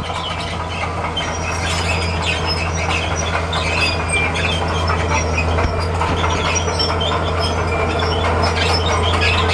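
Bulldozer working: the diesel engine runs with a steady low drone while the steel tracks squeal and clank continuously.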